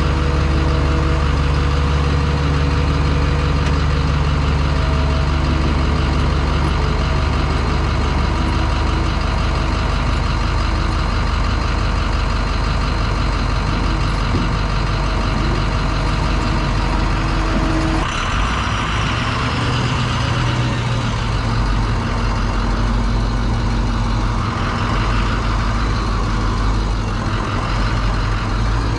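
International 4200 dump truck's VT365 V8 turbodiesel running steadily, its note changing about 18 seconds in.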